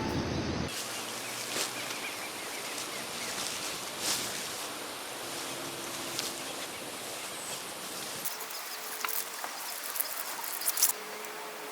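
Outdoor ambience: a steady hiss of background noise with scattered small clicks and taps, the tail of music cutting off at the start.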